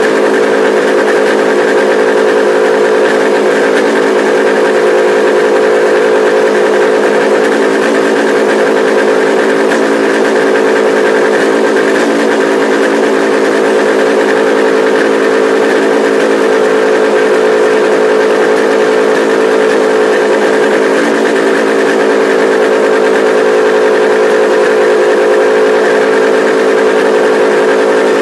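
Kawasaki H1 500's three-cylinder two-stroke engine running at a steady speed, with no revving.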